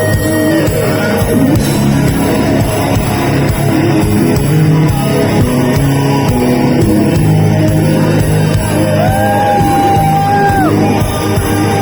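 Heavy metal band playing live, loud and dense, with one long held high note about nine seconds in.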